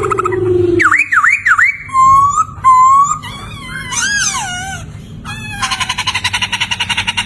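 Poksay (laughingthrush) singing loud whistled notes: three quick swooping whistles about a second in, two steadier whistles, a tangle of gliding notes, then a fast rattling call over the last couple of seconds.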